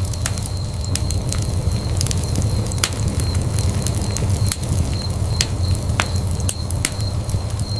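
Wood fire in a fireplace burning, with a steady low rumble and irregular sharp crackles and pops.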